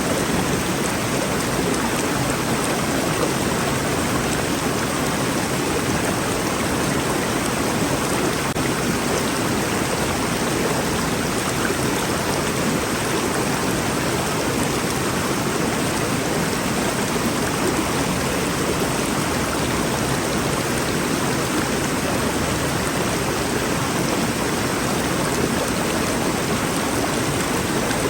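Rainforest river flowing, a steady, even rush of water.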